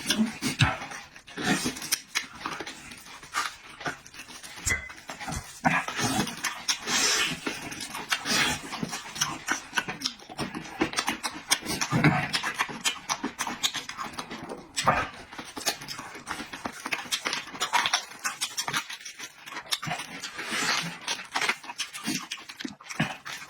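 Close-miked eating sounds: irregular wet chewing, smacking and breathing, with many small clicks and crackles.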